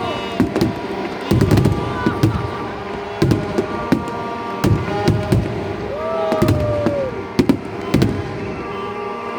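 Fireworks going off in an irregular string of sharp bangs and crackles, several every second, over a steady held tone.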